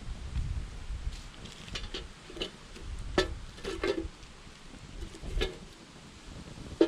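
Wood campfire crackling, with scattered sharp pops at irregular intervals, the loudest just before the end, over a low rumble of wind on the microphone.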